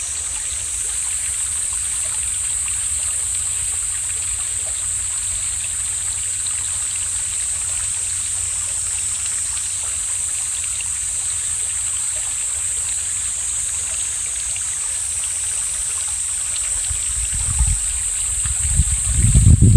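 Mountain valley stream flowing with a steady, hissing rush of water. Near the end, wind starts buffeting the microphone with low rumbling gusts.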